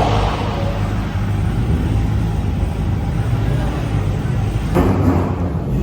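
Car engine running with a steady low rumble, briefly swelling louder near the end.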